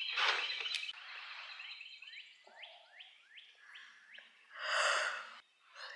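Songbirds singing: a run of about six quick, curved whistled notes in the middle, over other chirping. A short breathy rush of noise, like a sigh or exhale, comes about five seconds in.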